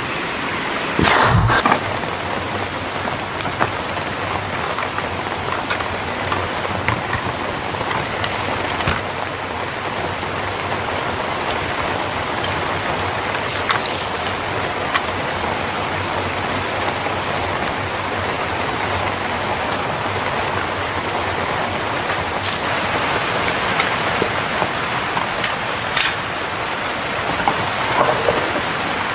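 Steady rain falling, with scattered sharp ticks of drops or crackles and one brief louder thump about a second in.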